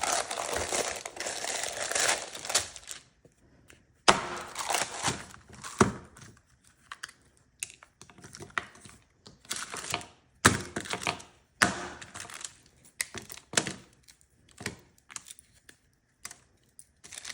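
Parchment paper crinkling and a frozen slab of peanut butter and water being snapped into pieces. A long rustle comes first, followed by scattered sharp cracks and knocks.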